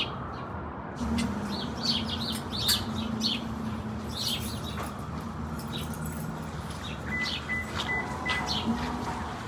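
Small birds chirping repeatedly in short, separate calls over a steady low hum of city background that starts about a second in.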